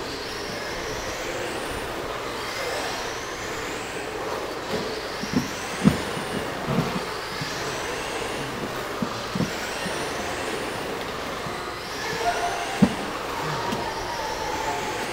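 1/10-scale RC racing trucks running laps on a dirt oval: their motors whine up in pitch again and again as they accelerate out of the turns, with a few sharp knocks of trucks hitting bumps or each other along the way.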